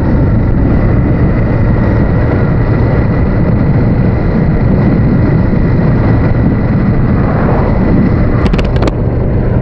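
Steady wind and road noise from a Honda VTR1000F motorcycle under way, with its V-twin engine running underneath. There are a few short clicks near the end.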